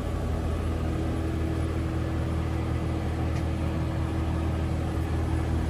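Heavy machinery running with a steady low drone and a held hum above it.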